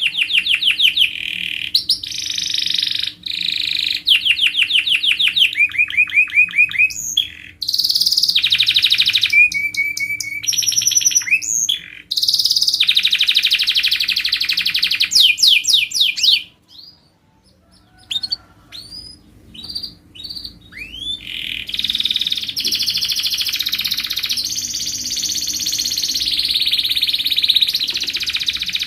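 Domestic canary singing a long, varied song of fast trills and rolls of rapidly repeated notes. About two-thirds through it breaks off briefly, with only a few scattered sweeping notes, before the song picks up again.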